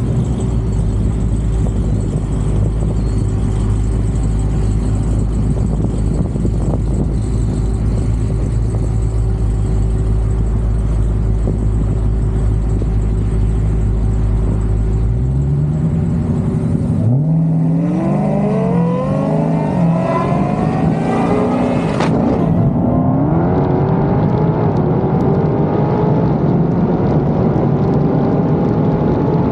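Dodge Demon 170's supercharged V8 idling steadily, then, about halfway through, accelerating hard: its pitch climbs, drops back and climbs again several times as it shifts up through the gears.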